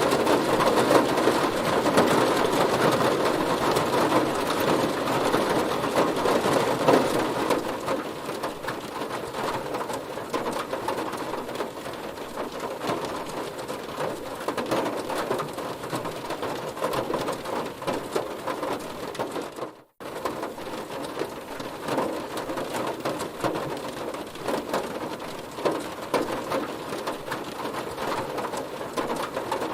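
Heavy rain pattering on a car body, a dense wash of drops that eases to a lighter fall about a quarter of the way in. Near the middle it cuts out to silence for a moment, then resumes.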